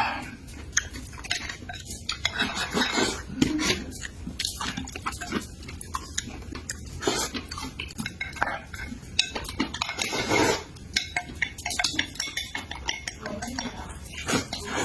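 Eating utensils clicking and scraping against dishes in quick irregular taps, with a few longer scraping noises.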